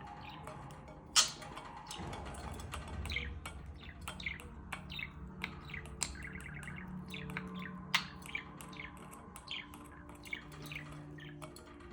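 Budgerigar chattering and warbling in a quick run of short chirps, with a fast repeated trill about six seconds in and a couple of sharp clicks, the kind of chatter a contented budgie makes.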